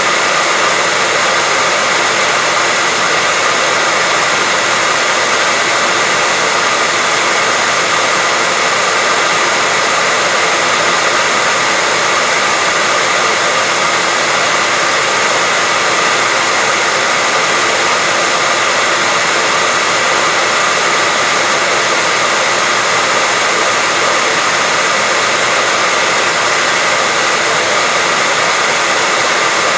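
Hair dryer running steadily: a constant rush of blown air with a faint even whine, holding the same pitch and loudness throughout.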